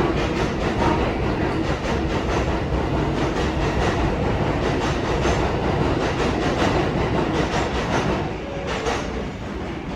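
R188 subway train rolling along the track with its wheels clacking over the rail joints, running steadily and then getting quieter from about eight seconds in.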